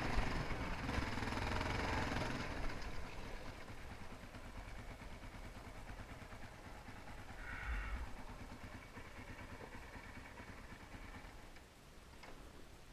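Motocross dirt bike engine running, loudest for the first two seconds or so, then fading to a low, steady sound.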